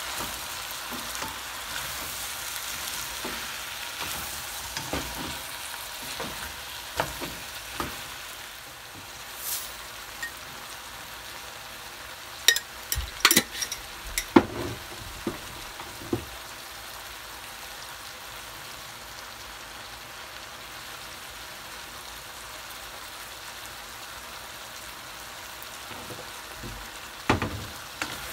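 Chicken drumsticks and onions sizzling as they fry in a large pot, with a wooden spoon stirring and scraping through them. Sharp knocks of the spoon against the pot come in a cluster about halfway through and again near the end.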